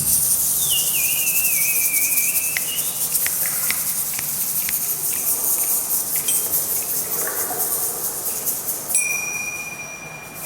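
Participatory orchestra of whistles and hand sounds. A warbling, bird-call-like whistle slides downward in the first few seconds, several sharp snaps or clicks follow, and a steady high whistled tone begins near the end, all over a constant high shimmering hiss.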